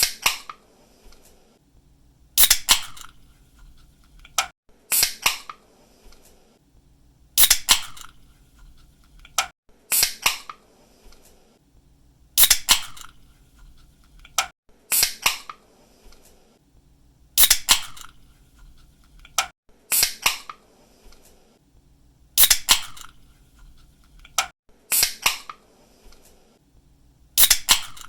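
Aluminium soda or energy-drink can being opened again and again: the pull tab cracks the can open with a sharp snap and a brief fizz about every two and a half seconds, and a smaller click comes between openings.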